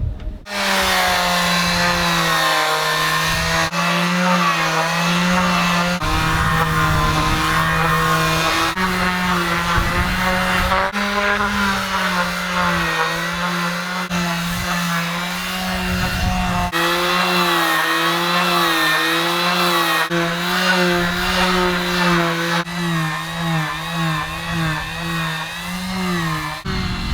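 Electric sander running against a boat hull, its motor hum wavering in pitch as the pressure and load change. The sound jumps abruptly every few seconds where short clips are joined.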